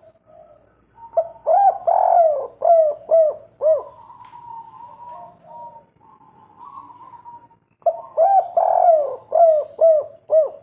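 Spotted dove cooing in two bouts of several rounded, repeated coo notes, the first about a second in and the second near the end, with a fainter drawn-out note between them.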